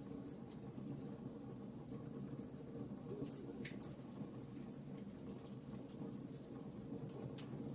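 Wood burning in a fireplace: scattered, irregular crackles and pops over a steady low hiss of the flames.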